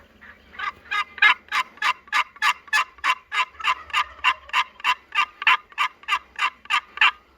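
Turkey yelping: a long, even series of about twenty short yelps, about three a second, which stops shortly before the end.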